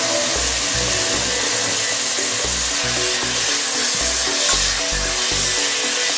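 Beef trimmings and spice paste sizzling in a pot as a ladle stirs them, under background music with a steady bass beat.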